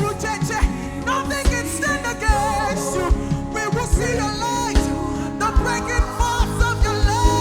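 A live worship band with a solo singer: a melody sung over sustained chords and a steady drum beat, which turns into a run of quick drum hits about five and a half seconds in.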